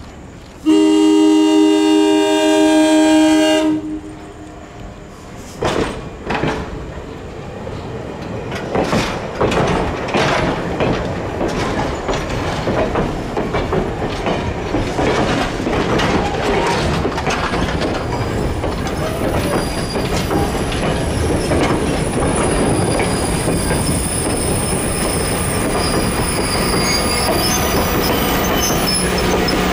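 The diesel locomotive's Nathan K3L air horn sounds one long chord of about three seconds. Then the train comes up and runs past: wheels knock over rail joints at first and build into a steady, loud rumble. Thin wheel squeal begins near the end.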